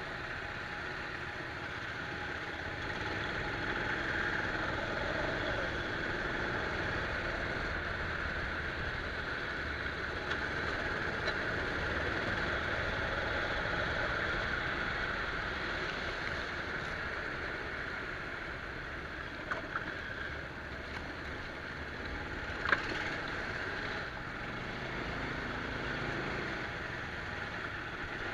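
Go-kart engine running steadily as the kart laps, heard from an onboard camera, with a sharp click about two-thirds of the way in.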